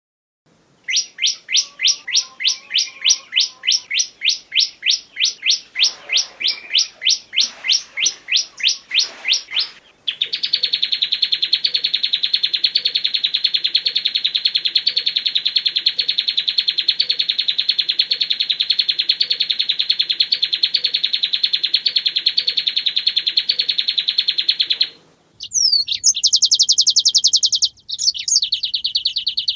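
Songbird song: a run of quick, repeated falling whistled notes, about three a second, then a long, very rapid high trill lasting about fifteen seconds. A brief break near the end gives way to different sharp high notes.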